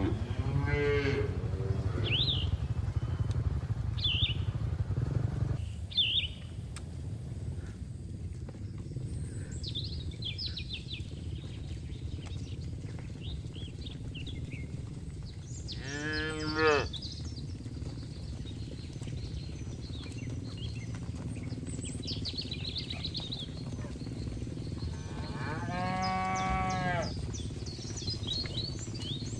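Cattle mooing: one long low moo at the start, another about halfway through and a third near the end, with short high bird chirps in between. A steady low rumble runs under the first six seconds and stops suddenly.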